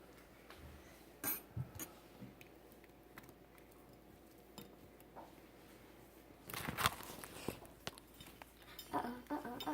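Scattered light clinks and knocks of hard household objects, like dishes or utensils being handled, with a louder cluster about seven seconds in.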